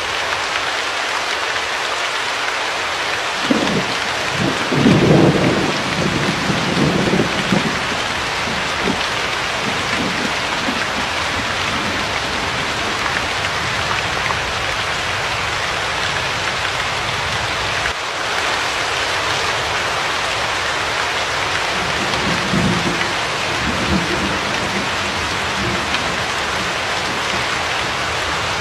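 Steady heavy rain, a continuous even hiss, with two spells of low rumbling: a louder one about four seconds in lasting a few seconds, and a weaker one a little past twenty-two seconds in.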